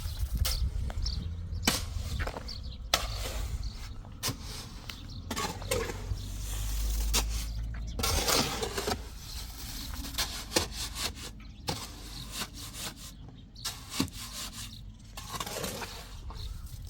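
Irregular scraping and knocking, with a longer rough scrape and a low rumble about seven to nine seconds in.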